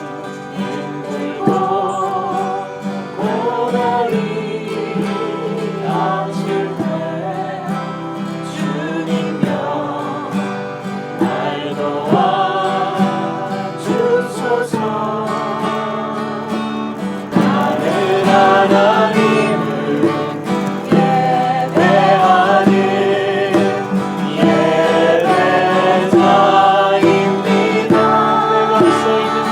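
A small group singing a Korean praise song to strummed acoustic guitar; the singing grows a little louder about halfway through.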